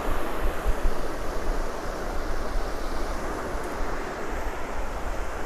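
Beach ambience: surf washing on the shore with wind buffeting the microphone in low gusts.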